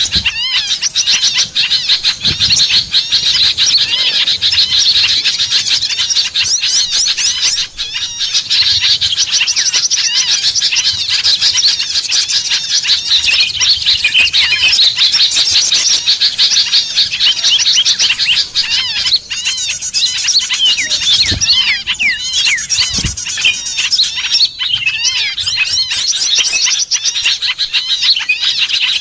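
Many small birds chirping together in a dense, unbroken chatter of rapid, overlapping high-pitched calls. It is a small-bird lure recording of the kind played to draw small birds in.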